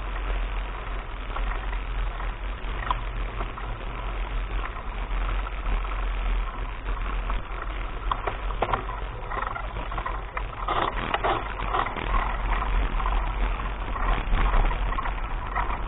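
Mountain bike being ridden over a rough dirt track: a steady wind rumble on the action camera's microphone, with clicks, crunches and clatter from the tyres and bike coming in clusters through the second half.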